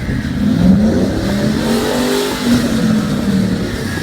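Jeep J-series truck's engine revving under load while rock crawling, its pitch climbing early on and then easing off after the middle.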